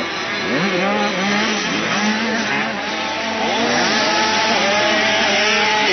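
Several motocross bike engines revving and easing off the throttle, their overlapping pitches rising and falling.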